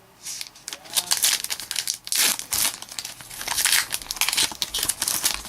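Foil trading-card pack wrapper being crinkled and torn open, a dense run of irregular crackles.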